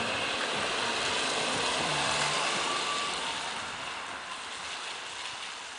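A car driving: steady road and engine noise that slowly fades near the end.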